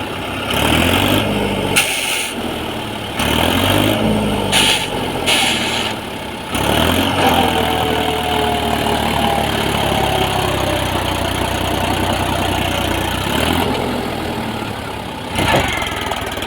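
Tractor engine running and being revved up and down three times, then settling into steady running, with a sharp click about two seconds in and a short knock near the end.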